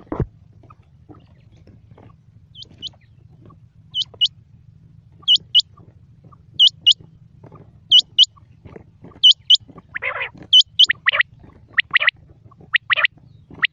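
Quail calling: a sharp, high two-note call repeated about every 1.3 seconds, then about ten seconds in a rougher noisy call followed by a run of louder, shorter notes. A brief knock sounds at the very start.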